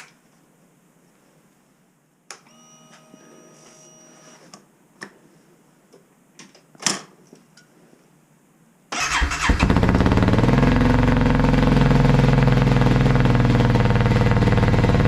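Cold start of a square-body Chevy truck's LS-swapped 6.0 L LY6 V8: after a few clicks and a short electronic chime, the engine cranks briefly about nine seconds in, catches and settles into a loud, steady fast idle.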